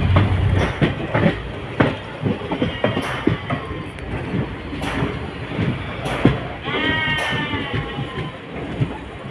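Passenger train carriage rattling, with many irregular knocks and clicks over a steady rumble. A short, high, wavering call cuts through near seven seconds in, with a fainter one around three seconds.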